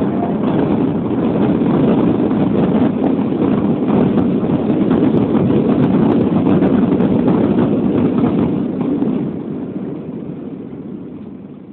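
Airbus A320 engine and airflow noise heard inside the cabin during the landing: a loud, steady rush that dies down over the last three seconds.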